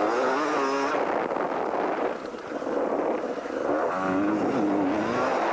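250cc two-stroke motocross bike's engine revving hard on the throttle, its pitch rising and falling. It eases off about two seconds in, then picks up and climbs again.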